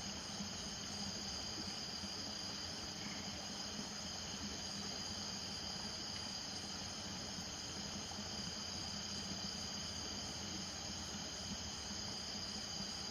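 Night chorus of crickets trilling steadily, several high pitches sounding at once without a break.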